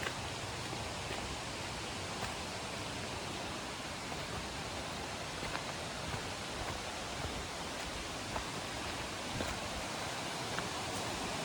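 A river rushing steadily, an even wash of running water, with a few faint clicks over it.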